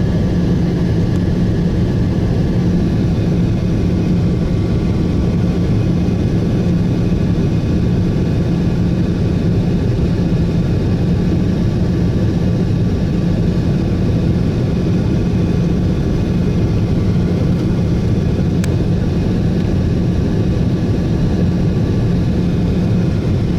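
Boeing 737 cabin noise: the jet engines running as a steady, loud noise with a constant low hum that does not change.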